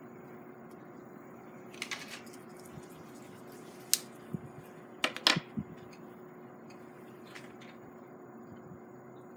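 A few short, wet clicks and smacks from lips puffing on a tobacco pipe: a couple about two seconds in, one sharp click near four seconds, and the loudest cluster a little after five seconds.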